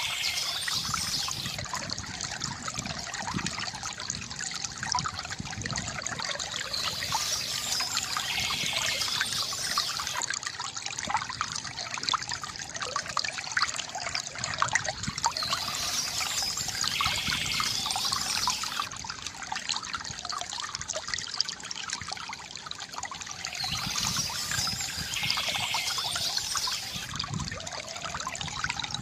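Water from a bamboo fountain trickling and gurgling steadily. A brighter, higher sound rises over it about every eight seconds.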